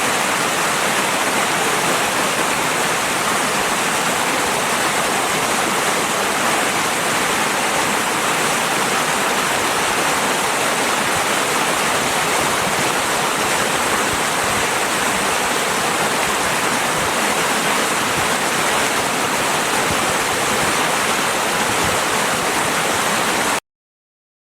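Steady rush of a river's flowing water, cutting off suddenly near the end.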